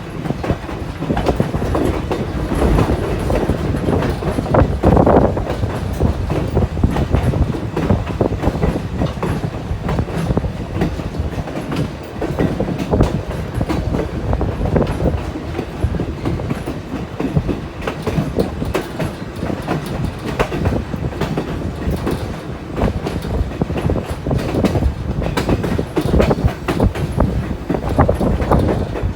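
White Pass & Yukon Route narrow-gauge passenger train running along the track: a steady low rumble with rapid, irregular clicks of the wheels on the rails.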